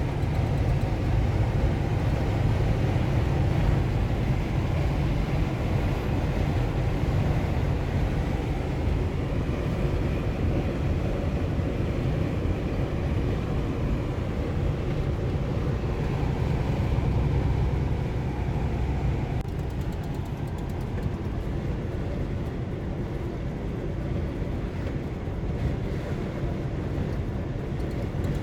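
Semi truck cruising at highway speed, heard from inside the cab: a steady low drone of engine and road noise that eases slightly about two-thirds of the way through.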